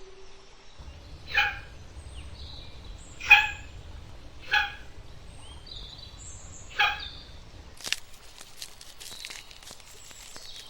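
An animal gives four short harsh calls, a second or two apart, with faint high bird chirps between them. Near the end the calls give way to scattered clicks and rustling.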